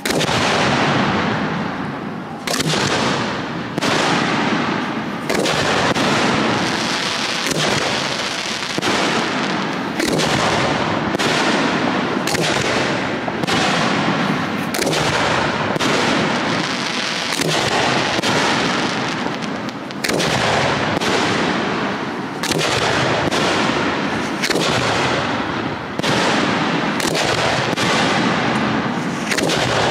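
Fireworks display: aerial shells bursting in quick succession, about one bang a second, each bang's noise running into the next.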